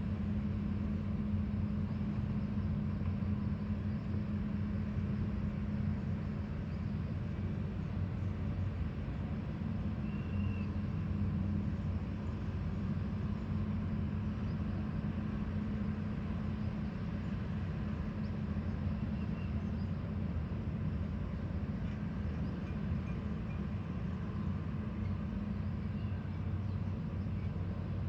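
Steady engine hum of construction machinery running at constant speed, with a low, even drone.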